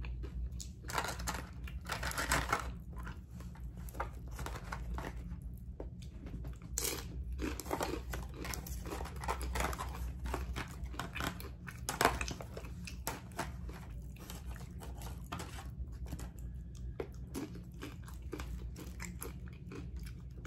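Tortilla chips being bitten and chewed, a run of irregular crisp crunches with some crinkling. One sharp crunch about twelve seconds in is the loudest.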